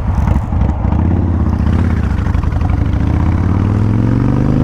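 Kawasaki Vulcan 1500 Classic V-twin motorcycle engine accelerating under way, its pitch rising steadily from about a second in.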